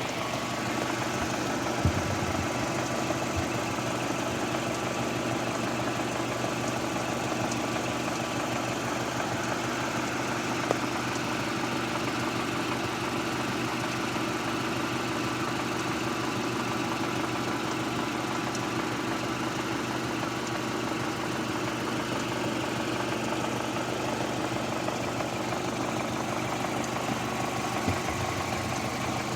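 2006 Mazda 6 MPS's turbocharged 2.3-litre inline-four idling steadily, with a few light clicks.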